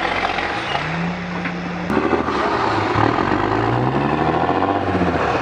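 Competition trial truck's engine revving under load, its pitch rising and falling, louder from about two seconds in.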